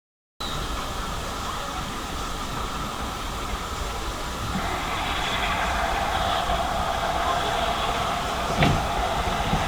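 GWR Churchward 2-8-0 steam locomotive 2857 running into a station with its train: a steady rumble and hiss. A high squeal joins about halfway through, and there is a single knock near the end.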